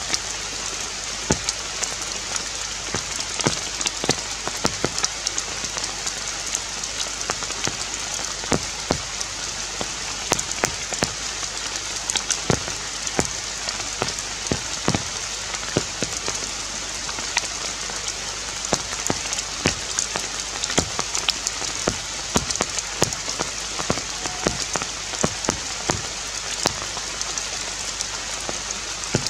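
Steady hiss of rain with many irregular ticks of drops landing on leaves.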